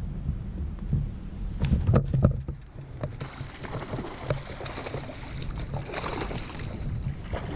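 Water splashing and sloshing around a fishing kayak, with a few knocks against the hull, over a steady low rumble of wind on the microphone.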